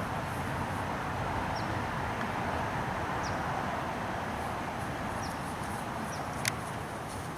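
Steady outdoor background noise with a small bird chirping briefly about every second and a half, and a single sharp click near the end.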